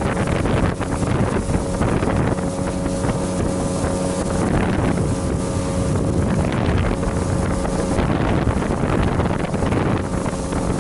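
Boat engine running at a steady speed, with wind buffeting the microphone and water rushing past. The engine tone drops out about eight seconds in, leaving the wind and water.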